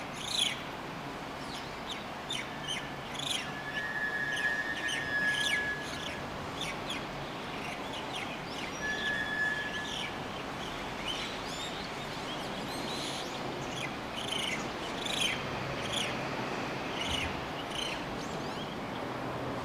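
Crested myna calling: a run of short, quick chirps and clicks, with two longer level whistles, one about four seconds in and one about nine seconds in.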